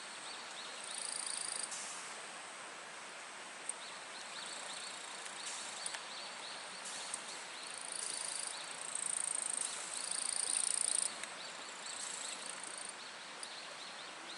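Summer insects calling: rapid pulsed chirps and high buzzing trills from several insects, overlapping and coming and going.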